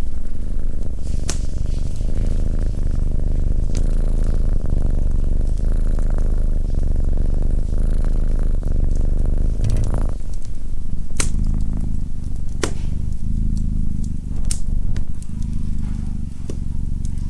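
Domestic cat purring steadily close up, with the sharp pops and crackles of a wood fire in a fireplace breaking in several times.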